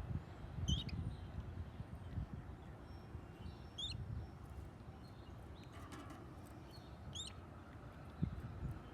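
Canaries chirping: three short, high chirps about three seconds apart, over a low rumbling background.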